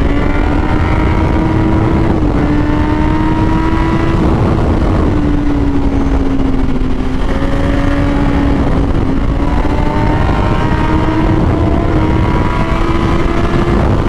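Kawasaki Z800 inline-four engine running hard at high revs, its pitch drifting gently up and down with the throttle, over heavy low wind rush.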